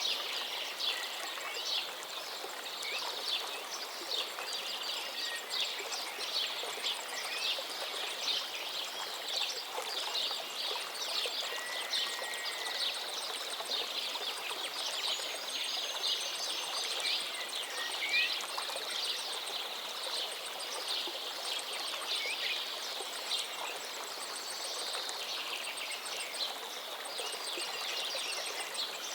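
A river or stream running steadily, with many small birds chirping and singing over it.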